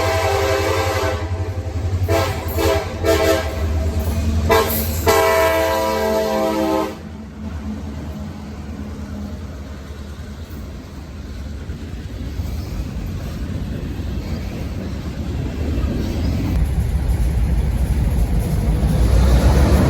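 Locomotive air horn sounding a chord in several blasts, some short, the last one long, stopping about seven seconds in. A low rumble of the train follows and grows louder toward the end.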